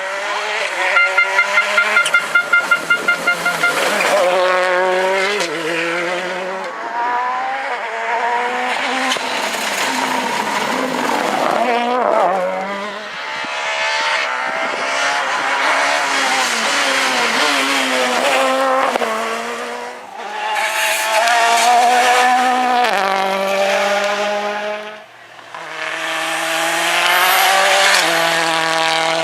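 Rally car engines revving hard at speed, the pitch climbing and dropping again and again through gear changes, over tyre and gravel noise. A rapid pulsing in the engine note comes in the first few seconds.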